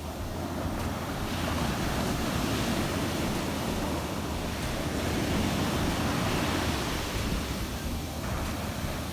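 Heavy sea surf breaking and washing on a beach, with wind buffeting the microphone. The surf swells about a second in and eases again near the end.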